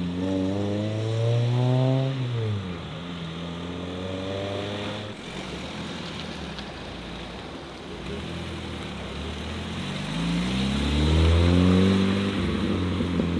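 Modified car engines accelerating as cars pull away: one engine's pitch climbs for about two seconds, then drops sharply. About ten seconds in, another rev climbs, peaks near twelve seconds and falls away.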